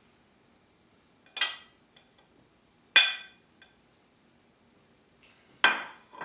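A knife clinking against a dish three times, each a sharp ringing clink, as chopped chicken is pushed off it with the blunt edge of the knife.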